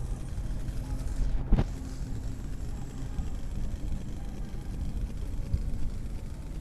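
Steady low rumble of wind and road noise picked up by a microphone on a moving bike ride, with one sharp knock about a second and a half in.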